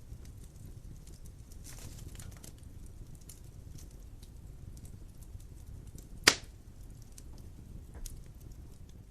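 Wood fire burning in a fireplace: a steady low rumble with continual small crackles, and one loud sharp pop about six seconds in.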